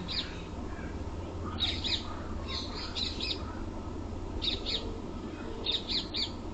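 Bird chirping in short, irregular bursts of two to four quick high chirps, over a steady low hum.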